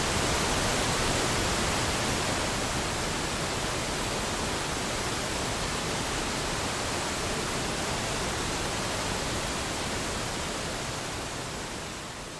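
Steady rushing of falling water, like a large waterfall, fading out near the end.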